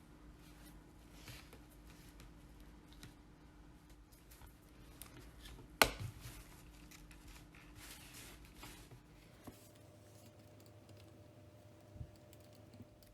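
Quiet hand work on a small metal-and-plastic model: light scratching and small ticks, with one sharp click about six seconds in and a softer one near the end.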